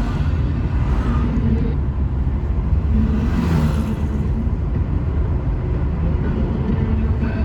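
Motor vehicle running, a steady low engine and road rumble, with a brief louder rush of noise about three and a half seconds in.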